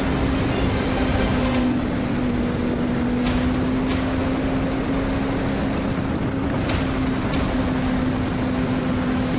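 Racing motorcycle engines running hard at a steady high speed: one held engine note over rushing road and wind noise, with a few short swishes.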